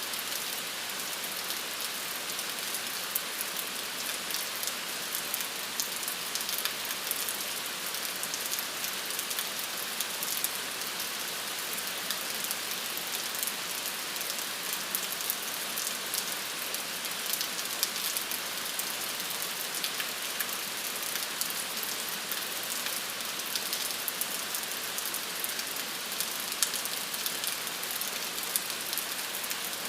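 Steady rain falling, a continuous hiss with the small ticks of individual drops striking a surface.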